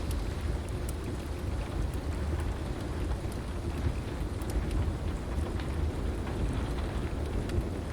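Heavy rain falling steadily over a continuous low thunder rumble, with scattered sharp pops from a crackling wood fire.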